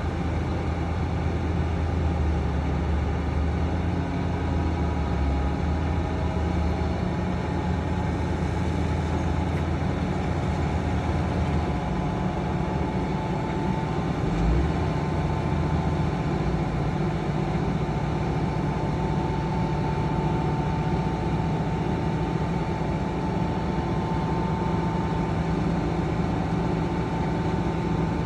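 Heavy diesel earthmoving engines running steadily under load. The deepest part of the engine note falls away about twelve seconds in, and there is one short knock a couple of seconds later.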